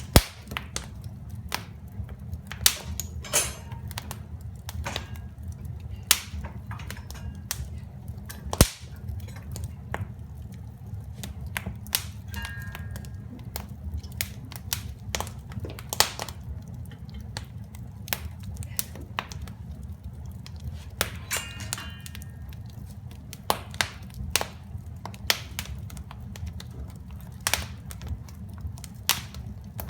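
Wood fire crackling, with irregular sharp pops, a few much louder than the rest, over a steady low rumble.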